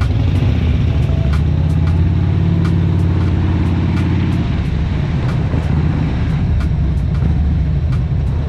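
Harley-Davidson V-twin motorcycle engine running under way, with wind and road noise. The engine holds a steady pitch for a few seconds near the start.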